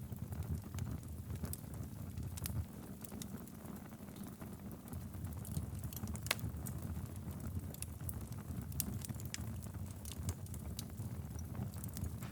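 Wood logs burning in a fireplace: a steady low rumble of flames with frequent sharp crackles and pops, the loudest pop about six seconds in.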